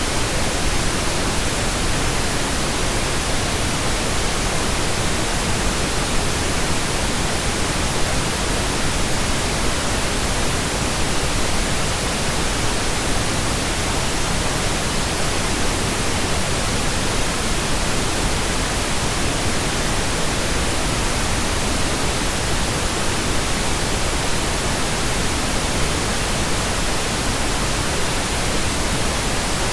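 Steady computer-generated pink noise: an even, unchanging hiss across all pitches, heavier toward the low end than white noise.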